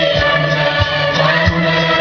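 Music: a choir singing held notes over a steady low beat.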